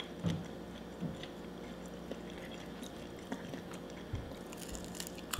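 Close-up chewing and biting on a chicken wing: a few soft, scattered wet mouth clicks over a low steady hum.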